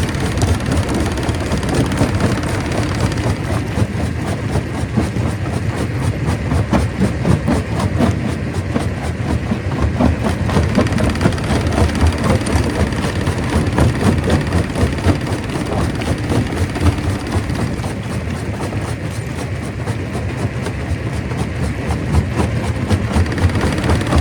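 Rock crusher running and breaking stone: a steady heavy rumble crowded with irregular knocks and cracks.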